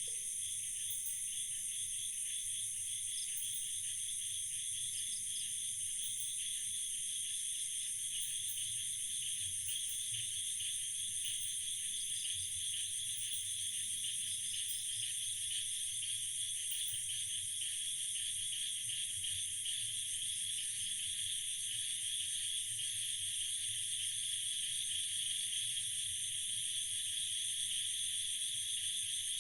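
Night chorus of crickets and other insects: a steady, many-layered high trilling in several pitch bands, with faint short chirps above it.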